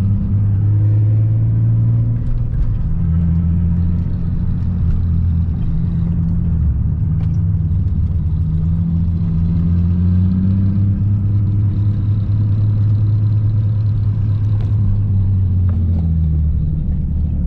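Car engine and road noise while driving: a steady low rumble whose pitch drifts slightly up and down.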